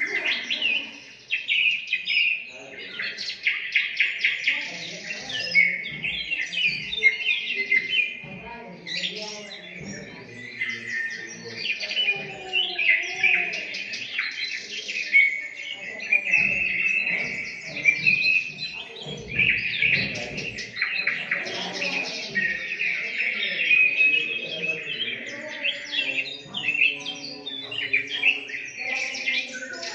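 Parrot chirping and chattering continuously in rapid, high-pitched bursts.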